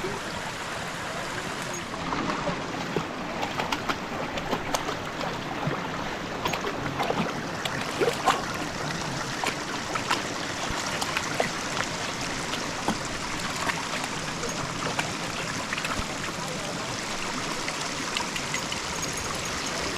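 A border collie splashing about in a running creek, with many short, irregular splashes over the steady rush of the water.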